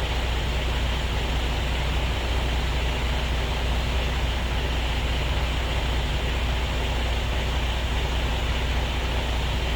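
Diesel truck engine idling steadily, a low even rumble with a constant hiss.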